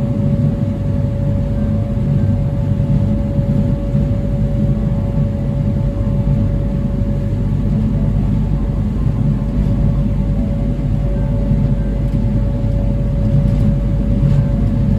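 Small passenger ferry's engines running steadily while underway, a constant low rumble with a steady hum above it.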